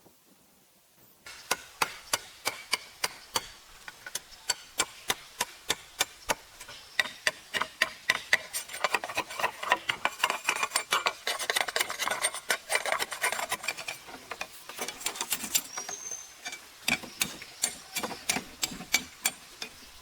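A fast, even series of sharp knocks, about three a second, starting about a second in: something hard being struck over and over with a tool.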